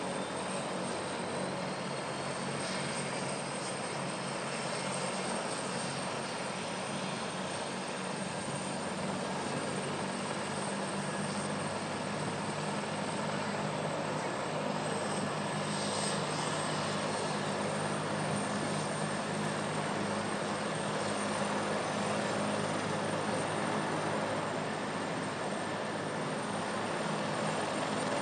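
Rescue helicopter's rotor and engine running steadily, growing a little louder toward the end.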